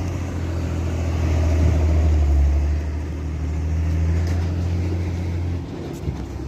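Truck engine running steadily under load, a deep drone that swells and eases a little and drops away near the end.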